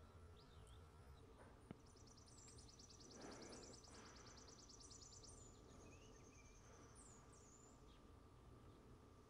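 Faint backyard birdsong: scattered short, high chirps, and a rapid dry trill lasting about three seconds that starts about two seconds in. A single sharp click comes a little before two seconds, and a brief soft rush comes near the middle.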